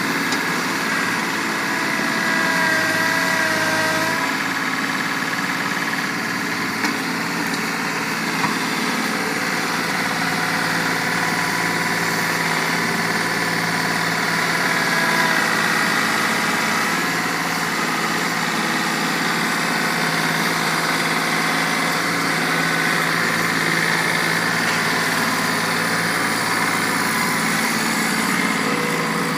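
Tractor engine running steadily, with two brief knocks about seven and eight and a half seconds in.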